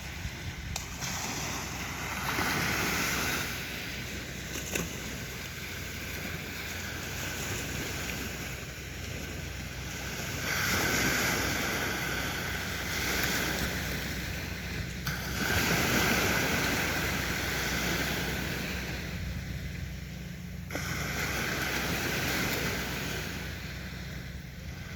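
Sea waves washing onto a beach, surging up every few seconds and falling back, over a steady low rumble.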